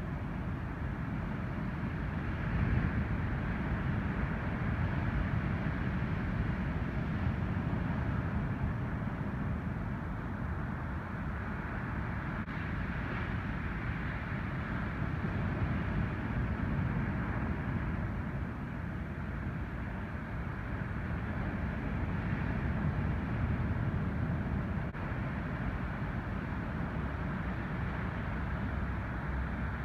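Ocean surf breaking on a beach, a steady rushing rumble that swells and eases every several seconds with the incoming typhoon swell.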